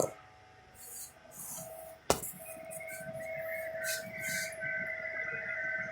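A sharp click about two seconds in, after which an electric machine starts running with a steady whine; before the click, a few short rustles.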